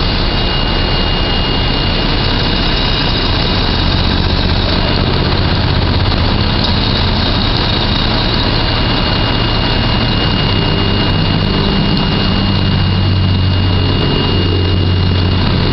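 Boom truck's engine running steadily, with a thin, steady high whine over it.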